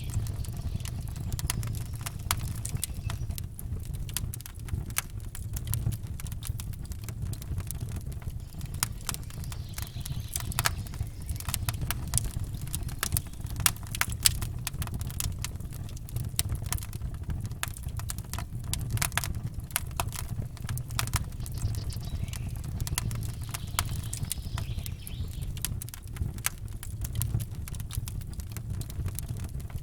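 Campfire crackling and popping in quick, irregular snaps over a steady low rumble.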